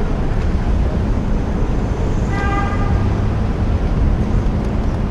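City street traffic with a steady low rumble, and a single car horn honk lasting under a second a little past halfway.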